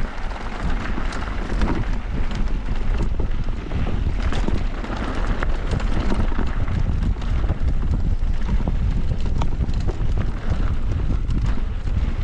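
Wind rushing over the camera microphone on a mountain bike descending a bike-park trail, with tyre noise and frequent small clicks and knocks from the bike over rough ground.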